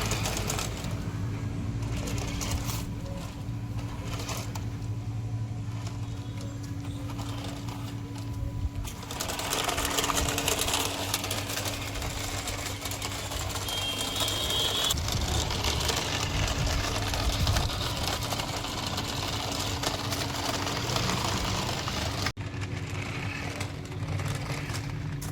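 Small electric motor and gears of a toy monster truck whirring steadily, louder and noisier from about nine seconds in.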